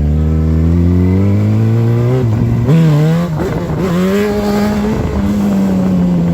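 Sportbike engine revving: the revs climb steadily for about two seconds, rise and fall unevenly for the next two, then hold and slowly drop off near the end.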